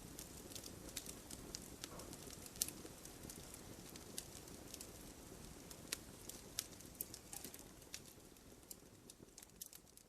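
Wood campfire crackling, with sharp pops scattered irregularly over a soft, low rush of burning; it fades away toward the end.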